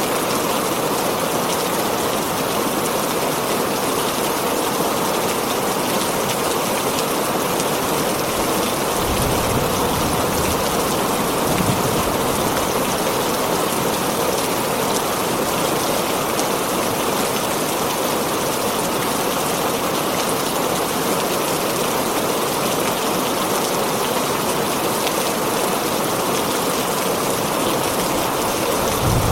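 Heavy rain drumming steadily on a tin roof, an even dense patter, with two brief low thuds about a third of the way in.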